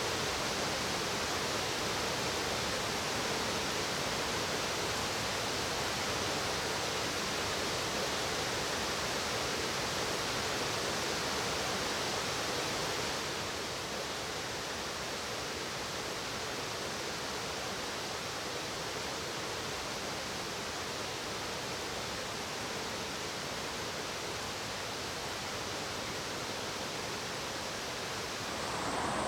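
Mountain stream rushing over rocks in a steady, even hiss of flowing water, a little quieter from about halfway through.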